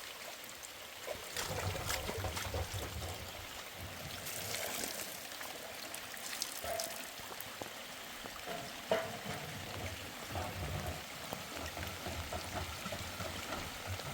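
Steady rain with water trickling and running, and scattered light ticks of drops.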